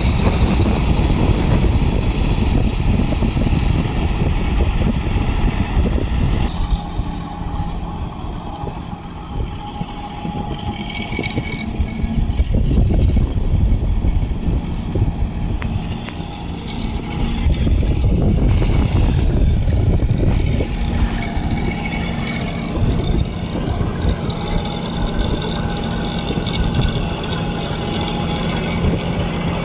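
Tractor engine running steadily with a heavy low rumble. The sound changes abruptly about six and a half seconds in and dips for a while before rising again.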